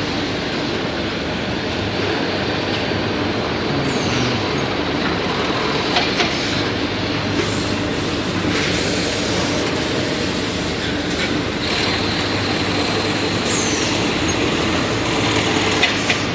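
Automatic bagging and conveying line running: steady machinery noise with a low hum, a few sharp clicks, and two short falling squeals, about four seconds in and again near the end.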